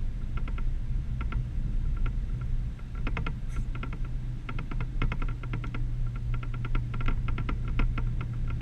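A 1988 Chevrolet K1500 pickup driving, a steady low rumble with irregular clusters of sharp little clicks and rattles over it.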